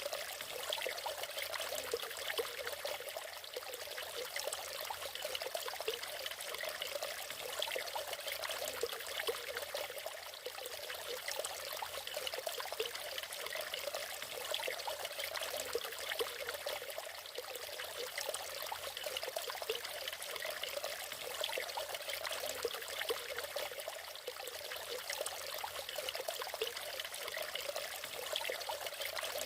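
Natural waterfall: water splashing and trickling steadily, with no pauses or changes.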